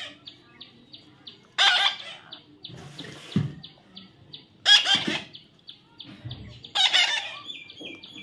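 Pet parrot squawking: three loud, harsh calls, about a second and a half, four and a half and seven seconds in, over a faint run of quick high chirps.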